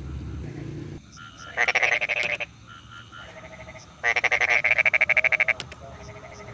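Frogs calling in a rice paddy: two bouts of rapid pulsed croaking, a short one about a second and a half in and a longer one near the middle.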